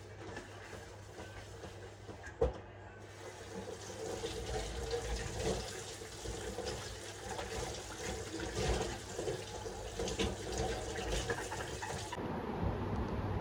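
Water splashing and pattering, a dense patter of small drops. It starts about three seconds in, after a single sharp click, and stops suddenly near the end.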